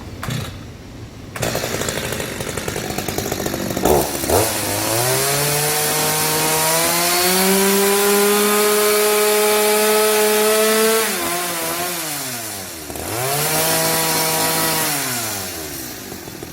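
Handheld power tool cutting wood for a hanok rafter. Its motor spins up with a rising whine, holds steady for several seconds, then winds down, and makes a second, shorter run near the end.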